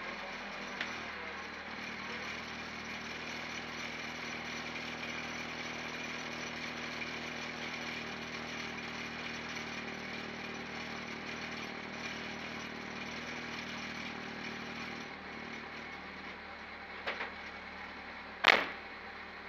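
Peugeot 205 race car's engine idling steadily, heard from inside the stripped cabin. Near the end come two small clicks and then a single sharp, loud knock.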